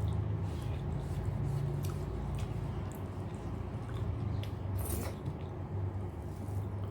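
Close-up eating sounds: wet chewing and squishing of rice and dal, with a few faint mouth clicks, over a steady low hum.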